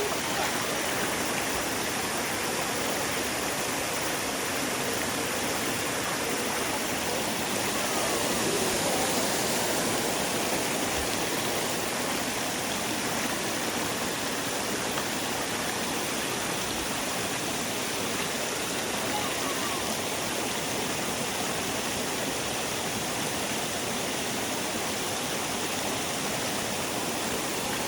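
Mountain stream water rushing steadily over rocks, a constant even rush of flowing water.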